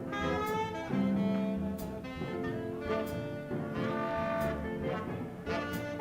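Swing jazz horn section of saxophones, trumpet and trombone playing held notes and phrases in an instrumental number over upright bass and drums, with a cymbal struck about once a second.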